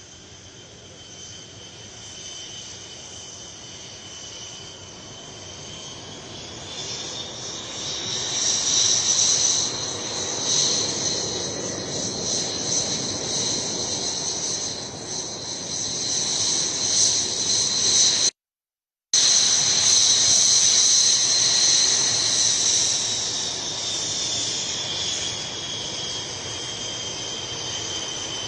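A MiG-21 fighter's jet engine passing close by, its high whine rising in pitch and loudness over a rushing roar, then falling and fading. The sound cuts out for about half a second around two-thirds of the way through.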